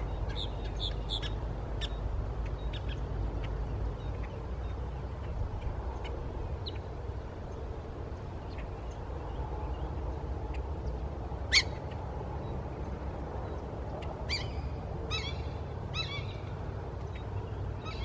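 Wild birds calling at a flooded pasture: a few short chirps early, then a run of about four harsh calls near the end, over a steady low background rumble. One sharp click sounds about midway.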